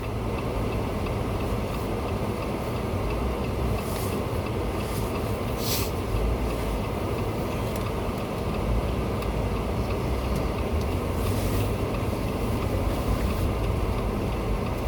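Vehicle engine running with a steady low rumble, with a few faint brief hisses above it.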